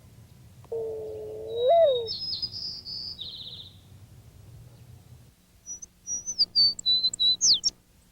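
Backyard birds calling and singing. A lower held note rises at its end and runs into high twittering, then after a pause comes a quick string of high whistled notes with sharp slides.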